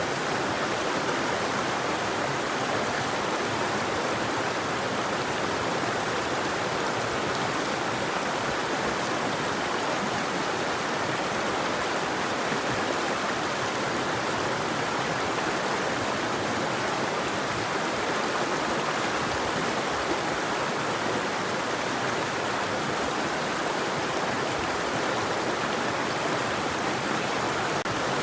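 River water flowing, a steady even rush with no birdsong.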